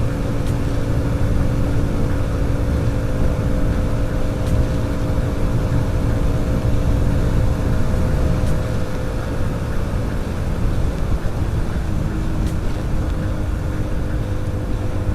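Hero HF Deluxe's small single-cylinder four-stroke engine running at steady cruising speed, heard from the rider's seat under heavy low wind and road rumble. The engine note changes pitch about halfway through.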